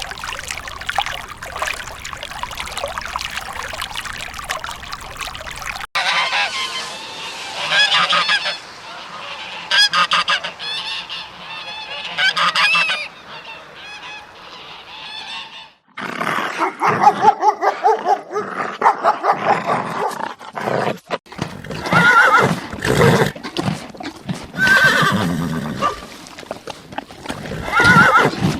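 Domestic waterfowl calling loudly: a dense chorus of overlapping calls for the first six seconds, then separate honking calls, and from about sixteen seconds in a run of short, repeated honks.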